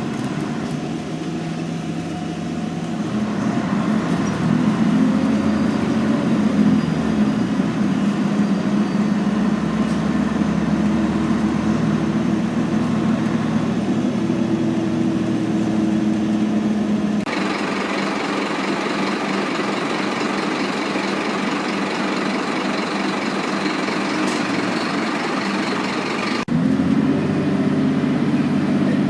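Scania N113 city bus diesel engine running, with a steady low engine note. The sound changes abruptly twice, about two-thirds of the way in and again near the end, as different recordings follow one another.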